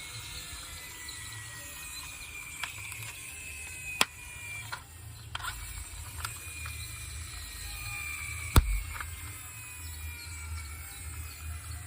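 Small toy car mechanisms whirring and clicking, with a faint high whine that slowly falls in pitch. A few sharp knocks come through, the loudest about two-thirds of the way in.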